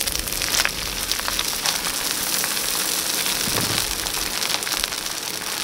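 Hot oil in a wok sizzling steadily with many small crackles as rice vermicelli fries with shrimp, egg, garlic and shallots.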